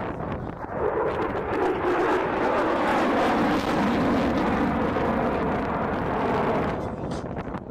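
F-35A Lightning II jet making a loud pass: its single Pratt & Whitney F135 turbofan roars, the pitch dropping steadily as it goes by. The roar falls away abruptly near the end.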